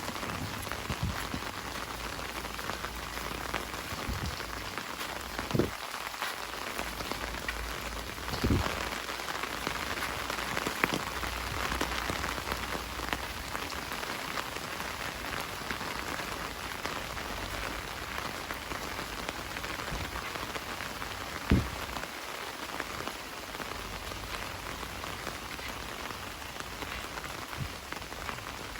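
Heavy rain falling steadily, with a few louder dull thumps scattered through it.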